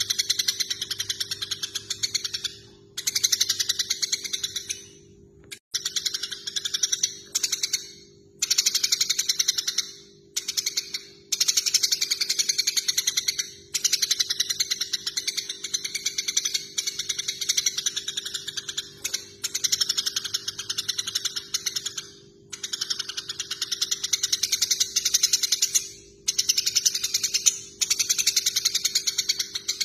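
Eurasian tree sparrows chattering in fast runs of harsh chirps, each run a few seconds long with brief breaks between, the agitated calling of sparrows fighting.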